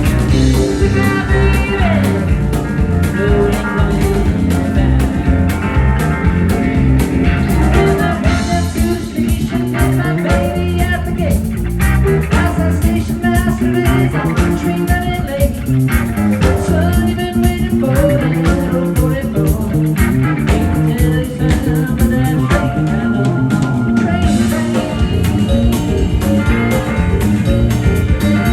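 Live cosmic-country band playing an instrumental passage: electric guitar over bass and drum kit with a steady beat.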